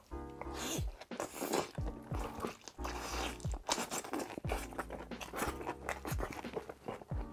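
Close-miked chewing and biting of a big mouthful of grilled lobster meat, wet and irregular, over a lo-fi background track with a steady falling bass beat.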